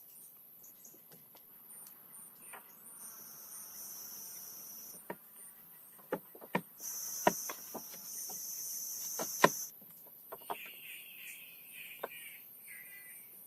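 Forest insects: a steady high-pitched trill throughout, and a louder insect buzz for about two seconds and again for about three seconds in the middle. Scattered sharp clicks and knocks, the loudest in the middle, and a run of chirps near the end.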